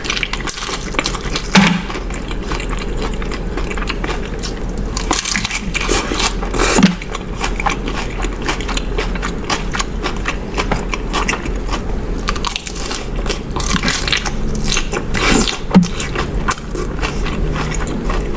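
Close-miked eating: steady crunching and chewing of food, with a few louder crunches about a second and a half in, around seven seconds and near the end.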